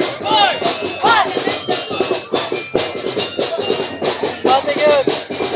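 Street-dance music driven by drums beating a steady rhythm, with voices calling out over it.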